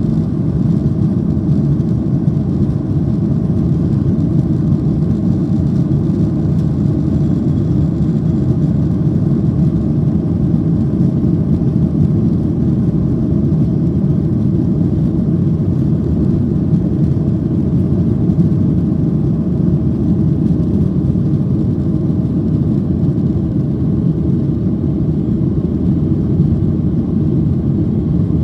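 Steady low rumble of a Boeing 737-800's CFM56 jet engines and airframe, unchanging throughout.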